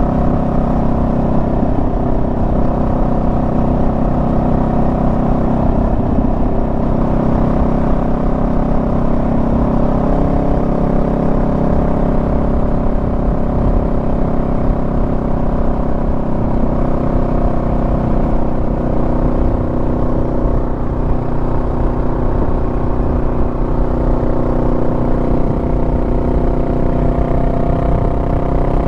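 Honda Rebel 500's parallel-twin engine running steadily under way, its pitch rising and falling slightly.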